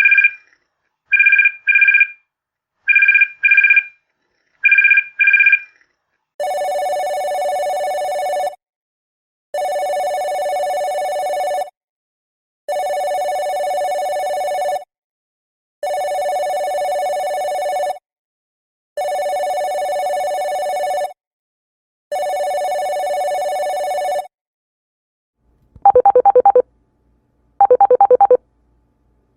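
A series of telephone rings that changes type partway through. It begins with short, high double rings about every two seconds. These give way to six long, lower electronic rings of about two seconds each with a one-second pause between them. Near the end come two short, fluttering trilled rings.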